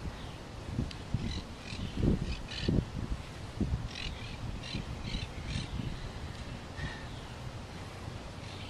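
A bird calling in a run of about eight short, rough calls between one and six seconds in, over gusts of wind buffeting the microphone that swell loudest about two and three seconds in.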